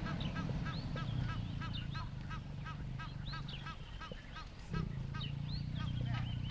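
Birds calling in a fast, even series of short honking calls, about three or four a second, over a low steady rumble.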